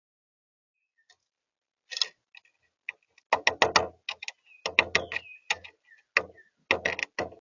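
Birds pecking and tapping on a hard balcony surface: a quick, uneven run of sharp taps and knocks starting about two seconds in, with a few faint high chirps between them.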